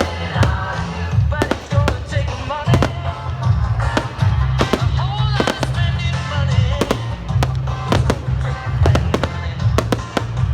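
Fireworks going off in quick succession, many sharp bangs and cracks, over loud music with a heavy bass beat.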